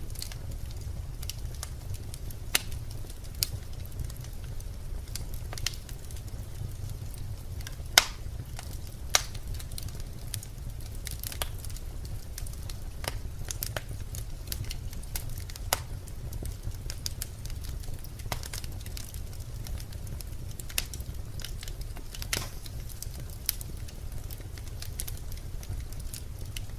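Birch logs burning in a fireplace: irregular sharp crackles and pops over a steady low rumble of the flames, the loudest pops about eight and nine seconds in.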